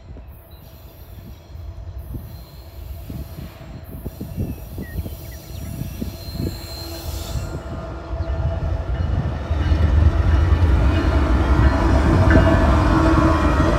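Canadian Pacific GE ES44AC diesel locomotive with a V12 engine approaching and passing, its engine growing steadily louder. Empty coal hopper cars follow on the curve with steady wheel squeal.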